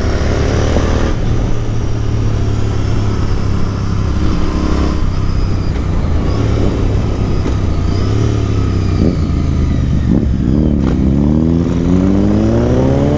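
Royal Enfield Interceptor 650's parallel-twin engine with an aftermarket exhaust running at speed over a heavy rumble of wind. Near the end the revs dip, then climb steadily as the bike accelerates.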